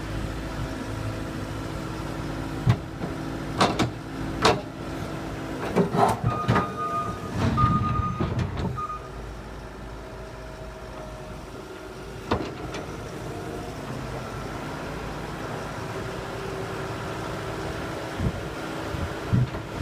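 Skid steer engine running steadily under a snow plow, with several sharp clanks and knocks in the first half. A short run of back-up alarm beeps sounds near the middle.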